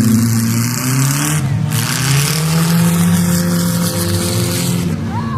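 Several race car engines running and revving, their pitch rising and falling as the cars circle the track, over a steady hiss.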